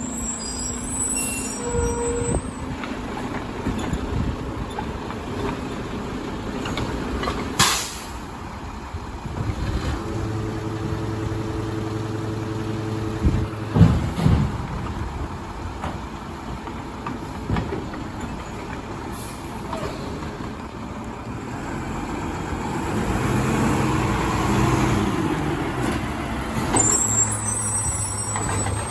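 Garbage truck working: its diesel engine runs throughout, with a short sharp air-brake hiss about eight seconds in, a steady low hum between about ten and fourteen seconds, a couple of loud knocks near fourteen seconds, and the engine swelling louder later on.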